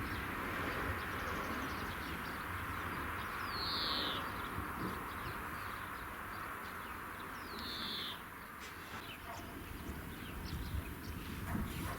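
A bird gives a short call sliding downward in pitch, twice, about four seconds apart, over a steady outdoor hiss and low rumble.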